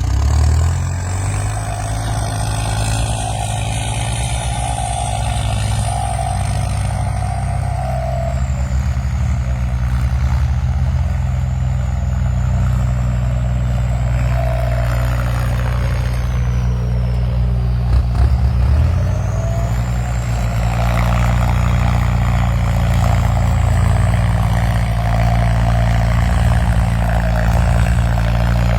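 Farm tractor's diesel engine running steadily, with a faint high whine that wanders up and down in pitch. The engine gets a little louder about two-thirds of the way through.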